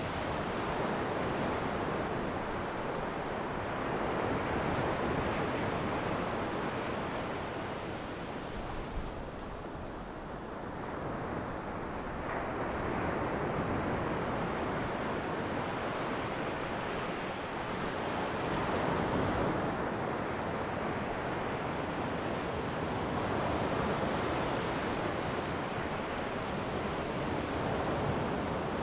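Ocean waves washing onto the shore: a continuous surf hiss that swells and falls back about every five seconds as each wave breaks.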